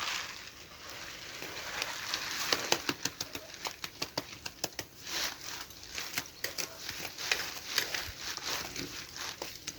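Wood fire crackling, with many sharp irregular pops and snaps over a light hiss, busiest from about two and a half seconds in.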